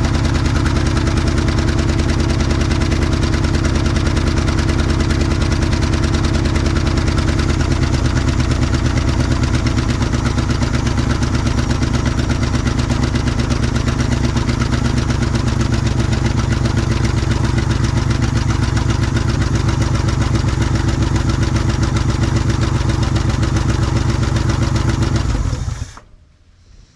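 1967 Ford F100's FE big-block V8 running at a steady idle, with one cylinder still down. The idle changes slightly about eight seconds in, and the engine shuts off abruptly near the end.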